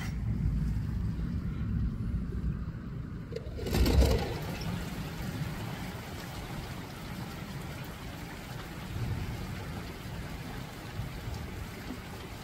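Steady rain falling on garden plants and a wooden fence, an even hiss from about four seconds in. Before it there is a low rumble for a few seconds, then a brief loud rush just before the rain sound begins.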